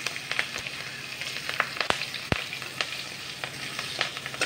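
Panch phoron and slit green chillies sizzling in hot oil in a metal kadai, with frequent small pops and crackles. A flat metal spatula scrapes and taps the pan as they are stirred.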